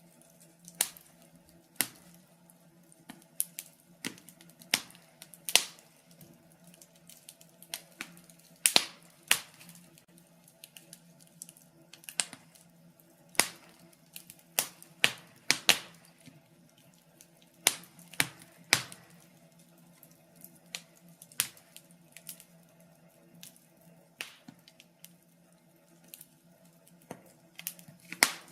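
Wood fire crackling in a fireplace: burning logs give off sharp, irregular pops and snaps, a few every second, over a faint low steady hum.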